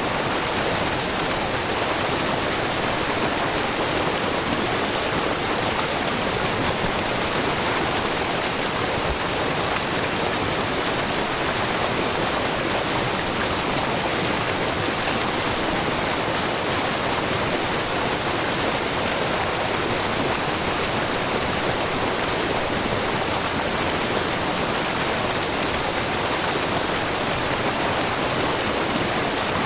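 Wide, low waterfall of spring water spilling in many thin streams over a rock face: a steady, unbroken rush of falling water that stays even throughout.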